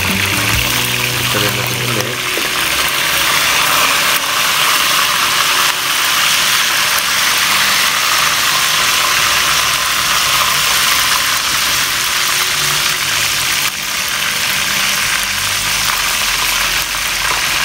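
Hot oil sizzling steadily as a whole chicken fries in a deep pot.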